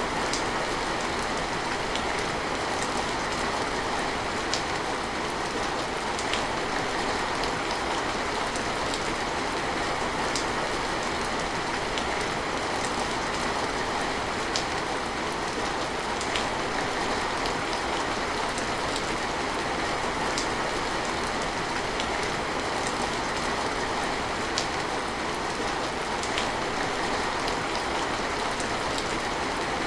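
Steady rain falling, an even hiss of drops, with a sharper single drop or drip standing out now and then.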